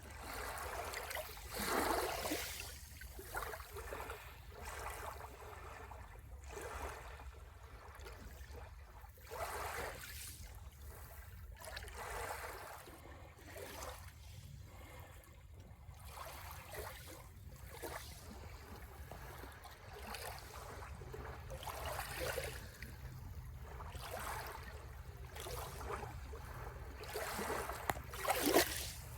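Sea waves washing ashore in repeated hissing surges every few seconds, the loudest about two seconds in and near the end, over a steady low rumble.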